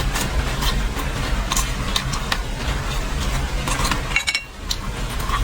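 Close-up chewing of crisp deep-fried food: irregular crunches and crackles, with a steady low hum underneath.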